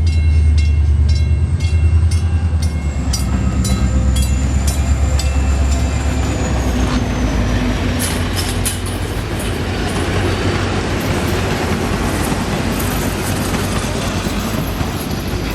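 A train rolling past at close range: a deep steady drone fades away after about seven seconds, while the wheels click in a regular beat over the rail joints and a thin high squeal slowly drops in pitch. The rumble of the train cars continues until it cuts off suddenly at the end.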